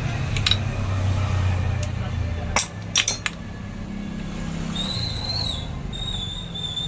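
Sharp metal clinks and taps of hand tools and engine parts as a motorcycle engine's timing side is dismantled, a quick cluster of them near the middle. A low steady hum runs underneath, and a thin wavering whistle comes in during the second half.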